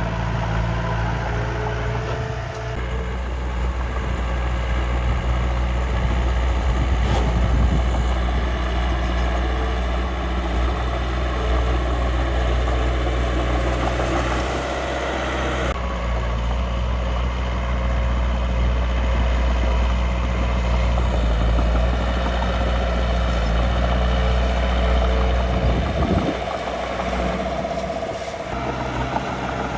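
Steady engine drone of the miniature dump truck and bulldozer at work, with a short dip about 26 seconds in.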